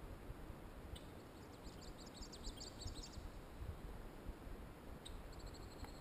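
A small songbird singing a rapid, high trill of repeated notes lasting about a second and a half, with a single high chip just before it and another short call near the end, over a low steady rumble.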